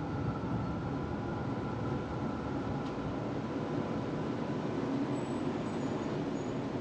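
Tram running along its tracks, heard from inside the passenger cabin: a steady rumble of wheels on rails with a faint steady whine.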